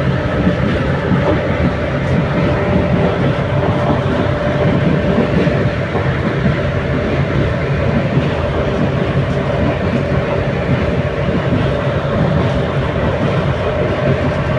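Passenger train running along the track: a steady, continuous rumble of the carriage wheels on the rails, with faint clickety-clack.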